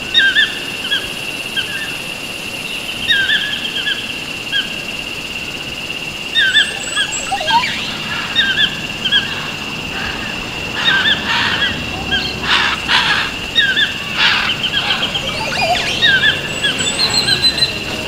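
Birds chirping: many short, quick chirps repeated throughout over a steady high tone, with a few harsher, noisier calls around the middle.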